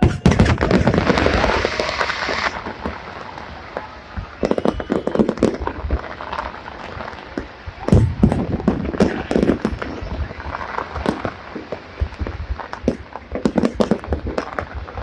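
Fireworks going off: a rapid, uneven string of bangs and crackles. It is loudest and densest in the first two seconds and swells again about eight seconds in.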